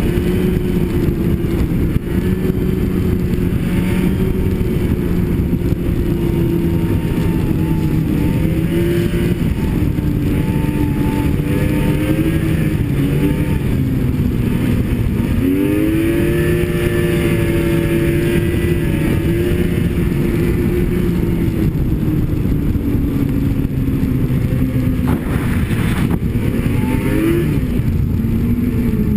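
Snowmobile engine running at steady cruising speed under load. Its pitch drops briefly about halfway through and then climbs back as the throttle is eased off and reopened.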